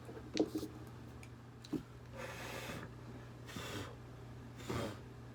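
Quiet handling sounds: a few light clicks and three short breathy rushes, over a low steady hum.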